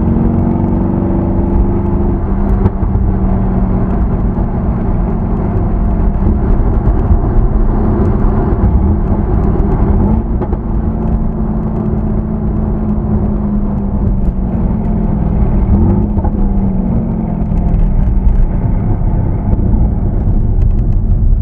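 Mercedes-AMG C63 S (W205) twin-turbo V8 running through its stock exhaust while driving, the engine note dropping in pitch about two seconds in and then rising and falling gently, over a low rumble of road noise.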